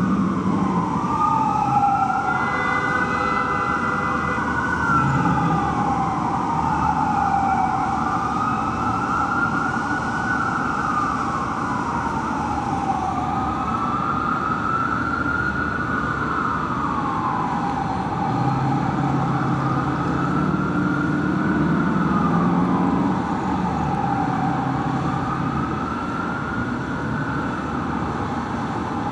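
Fire apparatus siren wailing in a slow rise and fall, about one cycle every five seconds. For the first few seconds a second siren overlaps out of step with it. A heavy truck's engine and road noise rumble underneath.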